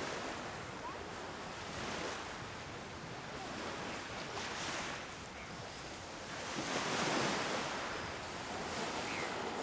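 Surf: waves washing onto a beach, a steady rush that swells to its loudest about seven seconds in.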